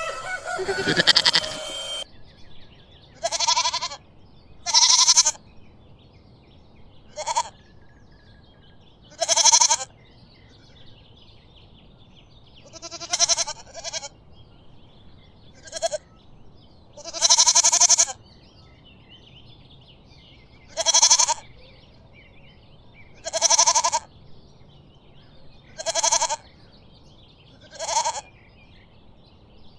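A goat bleating again and again: about a dozen separate calls, each under a second long, with short pauses between them.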